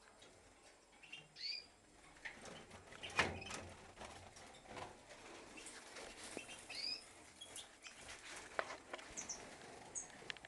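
Small cage birds giving a few short chirps and some brief high notes, over scattered light clicks and knocks, with one louder knock about three seconds in.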